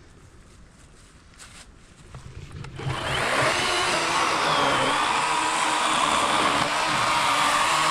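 Battery-powered Worx 40 V electric chainsaw with an 18-inch bar spinning up about two seconds in, after a few faint clicks, then running steadily and loud as it cuts into a large fallen log.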